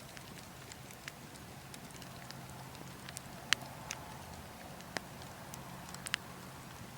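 Burning wood logs crackling, with a few sharp pops scattered through, the loudest about halfway, over a steady low rush of wind.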